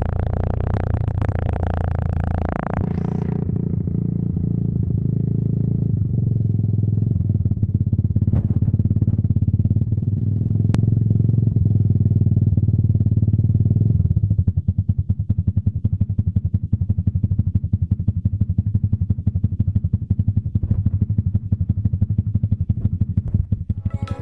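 Kawasaki dual-sport motorcycle's single-cylinder engine running through a Norifumi aftermarket exhaust. It is revved up for the first three seconds or so, then settles to a steady run, and from about halfway the exhaust beat turns into a distinct rapid popping as it idles.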